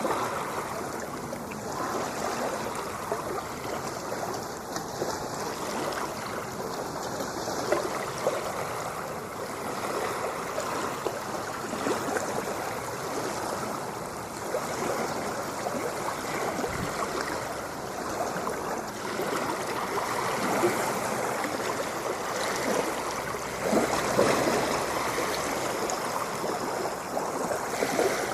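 Ocean surf: a continuous rush of breaking and washing water, rising and falling slightly in loudness, with a few sharper splashes near the end.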